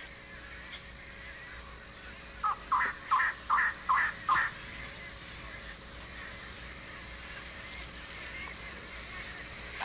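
A bird calling: a quick run of about seven short, slightly rising notes, two to three a second, starting about two and a half seconds in.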